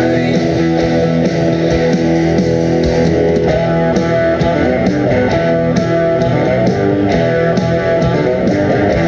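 Guitar music with fast, even picked notes, electric guitar at the front.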